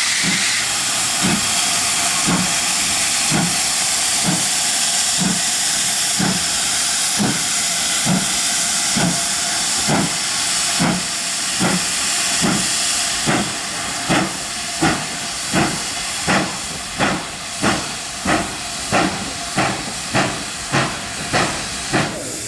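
Steam locomotive pulling away, its chuffing exhaust beats quickening from about one a second to about one and a half a second, over a loud hiss of steam that drops away about halfway through.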